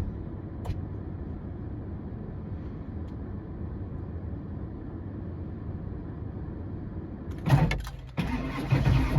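A steady low rumble while the glow plugs cycle, then about seven and a half seconds in the starter cranks and the old Ford Power Stroke V8 turbo-diesel fires up on a cold start, growing loud as it catches near the end.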